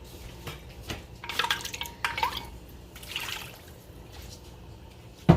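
Kitchen liquid sounds, wet pouring and dripping in two spells, with light clinks of kitchenware and a sharp knock at the very end.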